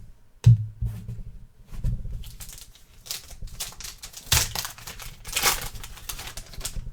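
Trading cards and a foil pack wrapper being handled: crinkling and rustling, with a soft thump about half a second in and louder crinkles in the second half.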